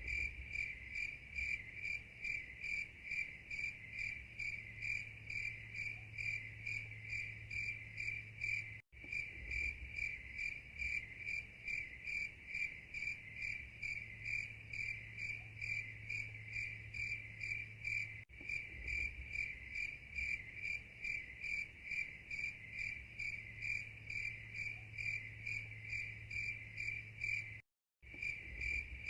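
Cricket chirping in a steady, evenly repeated rhythm, broken by brief silent gaps about every nine seconds.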